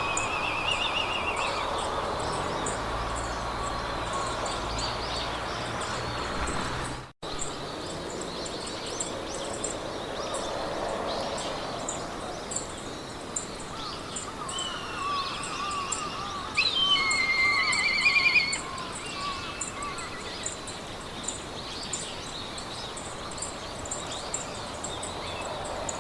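Meadow ambience: several birds calling and singing over a soft steady rush of wind through grass, with a high, even ticking running underneath. One bird's trilling song is the loudest thing, about 17 seconds in, and the sound cuts out for an instant about 7 seconds in.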